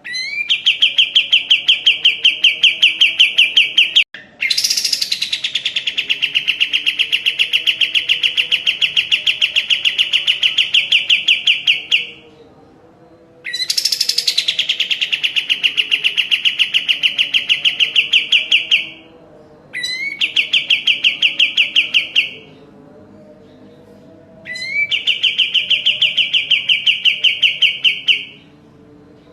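A kapas tembak songbird singing in long, loud, very fast trills, each a rapid run of one shrill repeated note. There are five of them, with short pauses between, and two of them open with a note that slides down from high.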